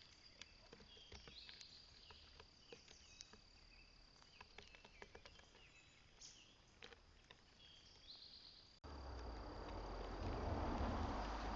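Outdoor ambience: a steady high insect trill with scattered short bird chirps and light ticks. About nine seconds in, it cuts abruptly to a louder, even rushing noise.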